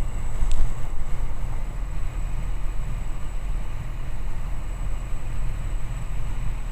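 Steady low drone of the Socata TB20 Trinidad's single piston engine and airflow, heard inside the cockpit in cruise. A faint high-pitched steady whine runs underneath, and there is a brief click about half a second in.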